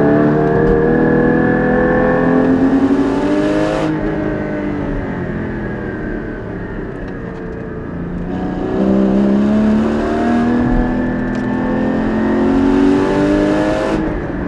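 Porsche 981 Cayman GT4's naturally aspirated flat-six pulling hard with rising revs, then coming off the throttle at about four seconds so the revs fall and the sound quietens. It climbs again from about eight seconds and breaks off sharply near the end at a gearshift.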